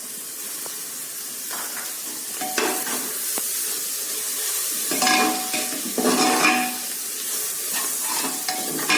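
Onions, mint and coriander leaves sizzling in hot oil while a spoon stirs them, scraping against the metal pot in strokes about two and a half, five and six seconds in.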